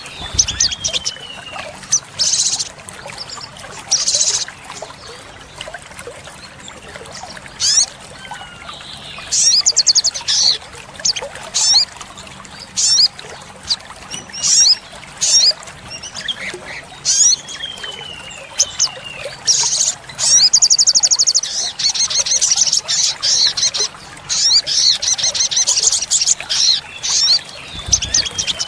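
Olive-backed sunbird singing: bursts of high, sharp chirps and fast trills, broken by short falling whistled slurs.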